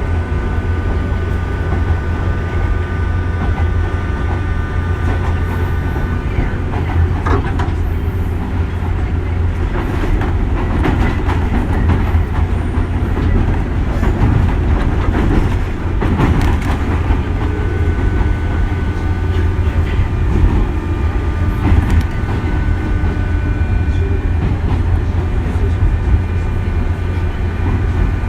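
JR 201 series electric train heard from inside the carriage, running on the line with a steady low rumble. A thin steady whine comes and goes, and the wheels click over rail joints now and then, most in the middle stretch.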